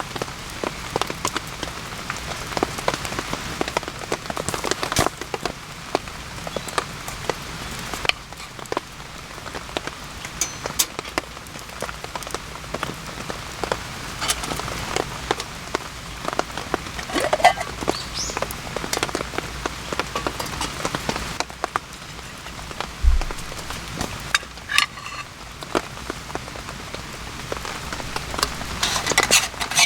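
Steady rain with many separate drops pattering and dripping.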